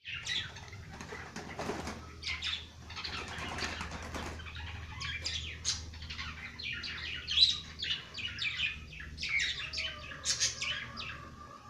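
Birds chirping with many short, high notes in quick succession, with wings flapping in the first few seconds.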